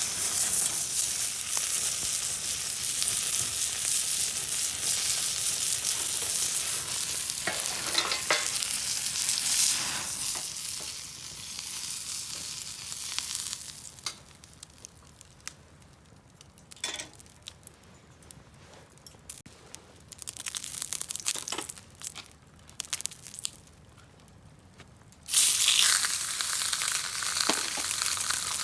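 Food sizzling in a frying pan. The sizzle is loud for about the first ten seconds and fades out. There is then a quieter stretch with scattered small clicks, and the sizzling starts up loudly again about three seconds before the end.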